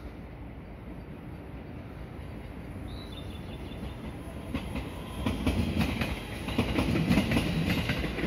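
An electric train passing on a nearby track, its wheels clattering over the rail joints. The rumble and clicking grow steadily louder from about halfway through.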